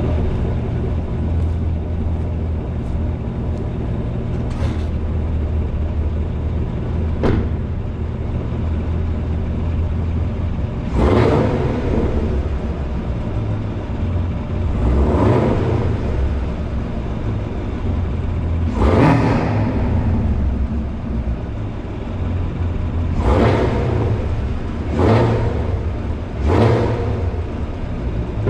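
Chevrolet Camaro ZL1's supercharged 6.2-litre V8 idling steadily, with its exhaust in touring mode, and revved six times, each rev rising quickly and falling back to idle. It echoes off the concrete of a parking garage.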